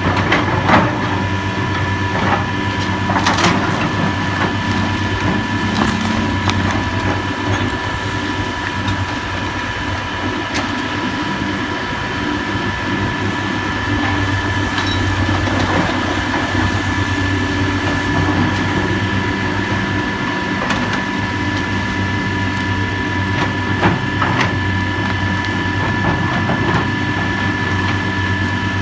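Heavy diesel demolition machinery running steadily with a low engine hum and a constant whine, punctuated by a few sharp cracks and crunches of debris being broken, loudest about three seconds in.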